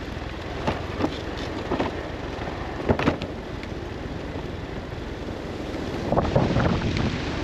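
Steady wind and the low rumble of the Polaris Ranger Northstar UTV, with a series of sharp knocks and clunks from someone getting out of the cab: a few in the first half, then a denser cluster about six seconds in.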